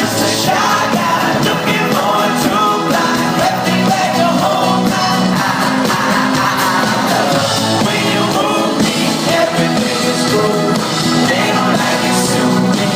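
Live pop-rock band playing a song with a lead singer, loud and steady throughout.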